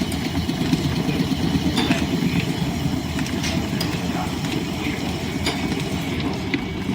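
Line-shaft-driven wood lathe and its overhead line shaft and belts running with a steady mechanical rumble, with scattered light clicks and ticks.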